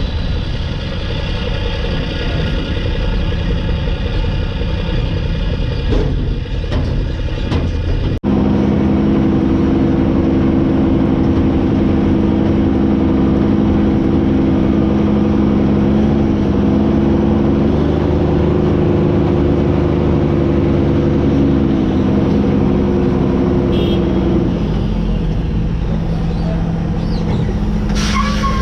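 Mack E7 inline-six turbo diesel in a CH612 truck running, with a steady high turbo whistle over the engine for the first eight seconds or so. After an abrupt change, a loud steady engine and exhaust drone that drops slightly in pitch near the end.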